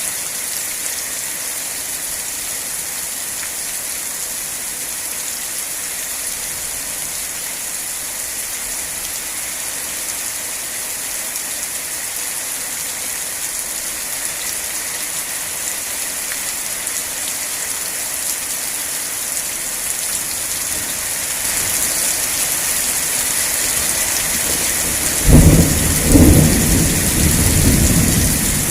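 Steady rain hiss that grows slightly heavier past the middle. Near the end, thunder cracks twice about a second apart and rumbles away.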